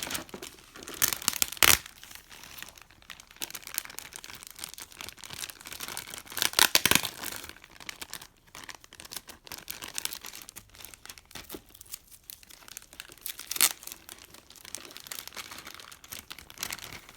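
Crinkling and crackling of a plastic kit bag holding model-kit parts as it is handled, with a few louder crackles about a second in, around seven seconds and near fourteen seconds.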